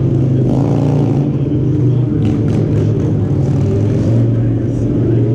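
Street-bike motorcycle engine running at a steady, low pitch, held without revving up or down.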